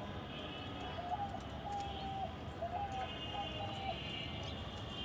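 A bird calling: a run of short, steady whistled notes, several stepping up in pitch partway through.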